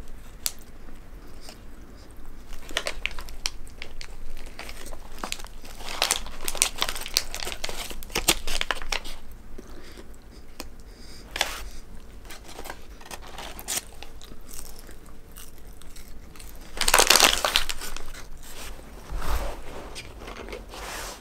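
Close-up chewing and biting of a large hamburger, with the paper wrapper around it crinkling in the hands. A louder burst of paper rustling comes about 17 seconds in.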